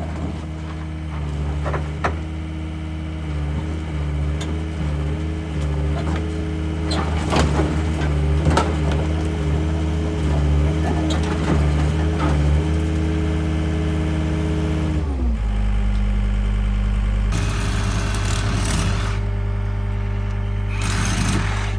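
Engine of a fork-equipped machine running at raised speed, its note wavering slightly, with scattered knocks and clanks; about fifteen seconds in it drops to a lower idle. Two bursts of hissing clatter come near the end.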